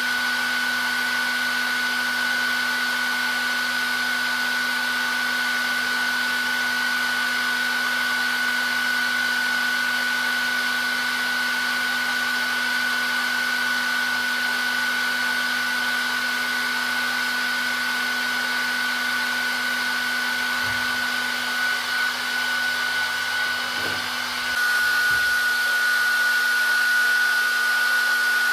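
Hair dryer running steadily: a continuous blowing hiss with a steady high whine and a low hum. About three-quarters of the way through, the sound shifts: it gets a little louder and brighter, and the whine drops slightly in pitch.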